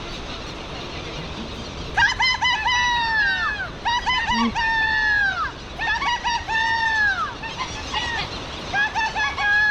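A person imitating Providence petrels, calling shrilly to draw them down. From about two seconds in come five rapid phrases, each a few quick 'kak' notes that end in a long, falling 'kaaw'.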